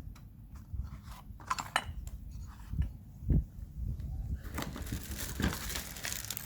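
Light clicks and knocks of parts being handled, then crinkling plastic packaging from about four and a half seconds in, as the new water pump's gaskets are brought out.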